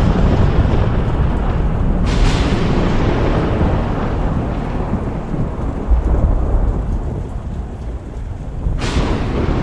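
Thunderstorm: a continuous deep rolling rumble of thunder over steady rain, with a fresh crack of thunder about two seconds in and another near the end, each fading into the rumble.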